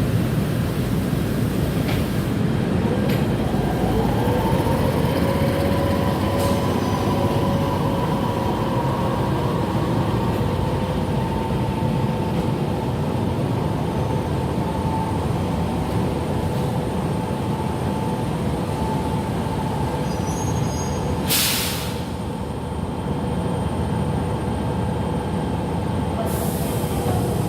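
Toyama Chiho Railway 10030 series electric train running slowly at the station, a steady rumble with a hum that rises about three seconds in and then holds. A short burst of hiss comes about three quarters of the way through.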